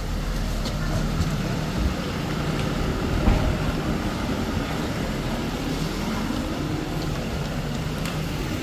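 Bus engine idling steadily, heard from inside the cabin, with a few small knocks and rattles.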